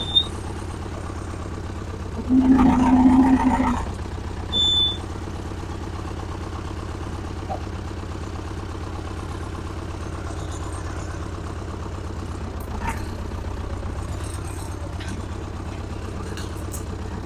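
Small tractor engine running steadily, with a louder stretch carrying a strong low tone about two to four seconds in and a brief high squeak just before five seconds.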